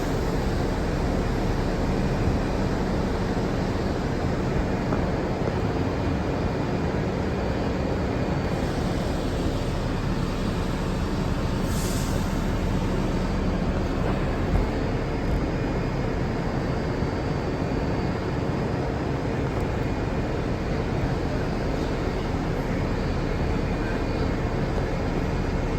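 R62 New York City subway car on the 3 line running, heard from aboard: a steady rumble of motors and wheels on track with a faint steady hum.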